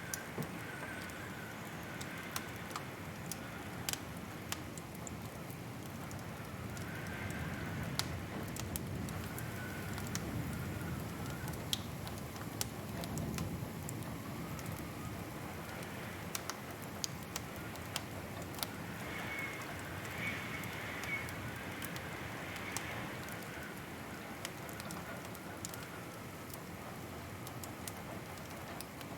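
Wood fire crackling in a fireplace: sharp, irregular pops and snaps over a steady low rumble of burning.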